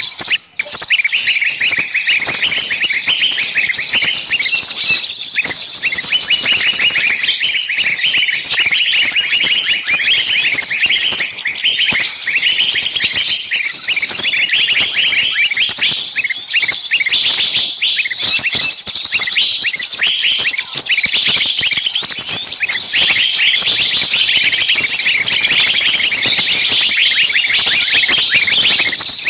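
Dense, noisy chorus of small songbirds chirping and calling over each other without pause: a lure recording of agitated, screaming small birds used to draw other small birds in. The calls are short, high chirps and trills.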